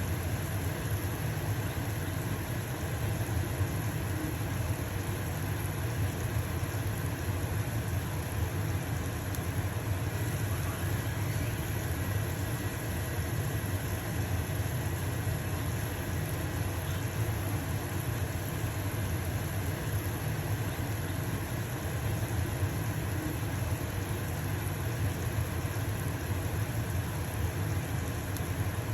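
Stove-top range hood fan running with a steady low hum, over the even hiss of a pancake sizzling in a frying pan.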